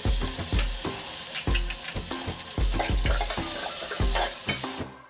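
Shredded boiled chicken sizzling in hot oil with sautéed garlic and onion in an aluminium pot, stirred with a metal ladle. The sizzling drops away just before the end.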